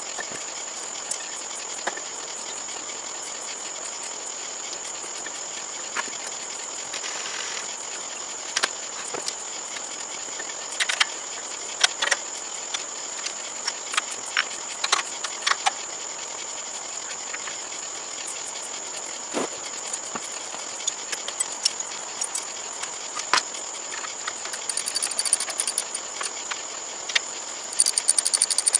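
A steady high-pitched insect drone, like crickets, with scattered sharp clicks and clanks of hand work on the riding mower's parts, and short bursts of rattling near the end.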